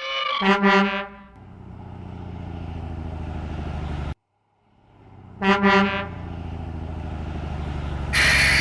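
Truck sound effects: a horn honks, then an engine rumbles steadily and cuts off abruptly. The horn honks again, the engine rumbles once more, and a loud hiss bursts out near the end.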